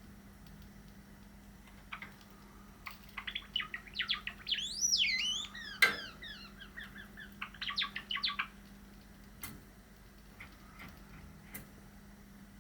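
Cream Java sparrow singing its song: a run of clicks and short chirps that speeds into a warbling stretch of rising and falling whistles, lasting about six seconds, followed by a few sharp clicks.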